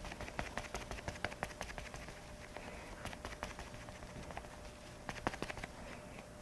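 Faint, irregular light taps and clicks of makeup products and tools being handled and applied.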